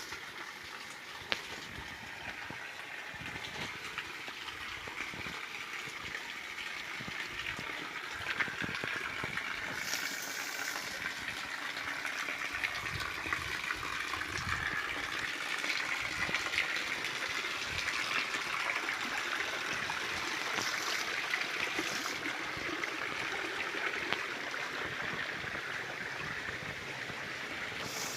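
Stream water flowing and burbling in a steady rush that grows gradually louder.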